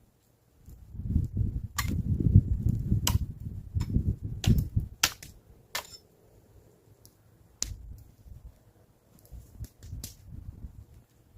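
A series of sharp cracks and snaps over low rustling and handling noise, densest in the first five seconds, then a few sparser snaps.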